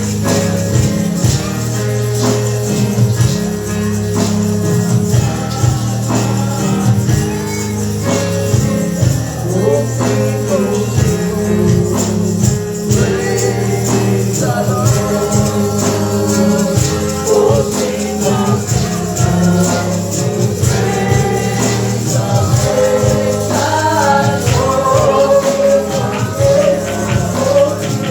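Gospel praise music: a congregation or choir singing over keyboard and bass, with tambourine shaken steadily on the beat.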